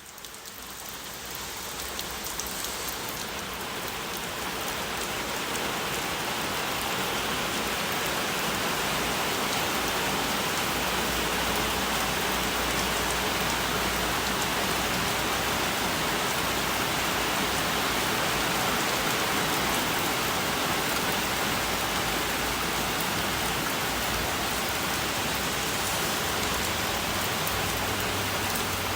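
Steady rain falling. It swells over the first few seconds, then holds at an even level.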